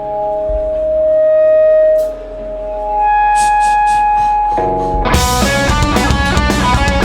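Live punk band: a held electric guitar note swells and cuts off, a second long note rings with a few quick cymbal hits, then the full band of guitars, bass and drums crashes in about five seconds in.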